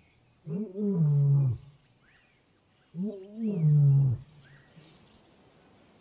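A lion roaring twice, two long moaning calls that rise in pitch and then fall away, about two and a half seconds apart.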